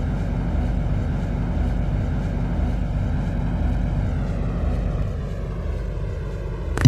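Steady hum and rumble inside a stationary MTR Tseung Kwan O line C-Train standing with its doors open, with a faint falling whine about four seconds in. At the very end a sharp click as the door-closing warning chime begins.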